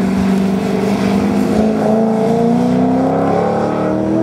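Holden VT SS Commodore's V8 engine under acceleration, its pitch climbing steadily.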